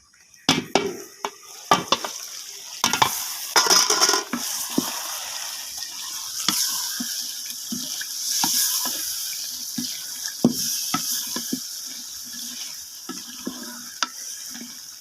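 Chicken pieces frying with ground spice paste in a pot, sizzling, while a spoon stirs and knocks against the pot. The sizzle and knocking start about half a second in.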